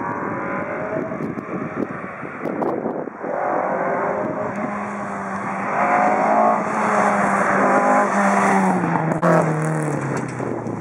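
A rally car at speed on a stage, its engine note rising and falling. It grows louder toward the middle and drops in pitch near the end as it goes by.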